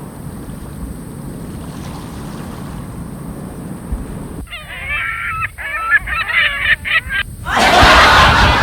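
Low steady rumble of outdoor wind noise. About halfway through, a bird gives a quick run of repeated honking calls for about three seconds. Near the end a loud rush of wind on the microphone cuts in.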